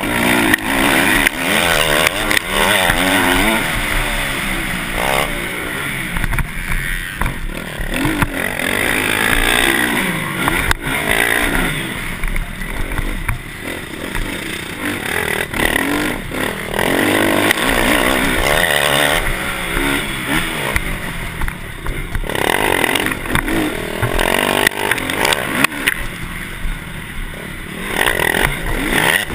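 Motocross dirt bike engines revving hard, pitch rising and falling again and again as the bikes accelerate and shift, with more than one engine heard at once.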